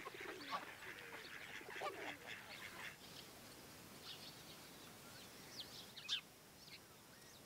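A large flock of birds calling together in a dense chorus. About three seconds in it gives way suddenly to a few scattered high chirps.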